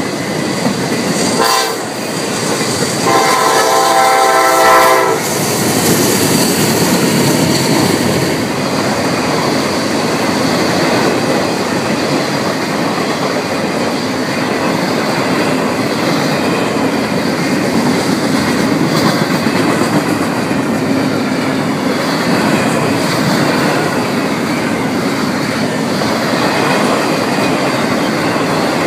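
A locomotive horn sounds one chord for about two seconds a few seconds in, over the steady rumble and clatter of a CSX intermodal freight train's wheels rolling past on the rails.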